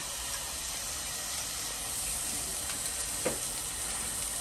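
Food sizzling as it fries on a restaurant kitchen stove: a steady hiss.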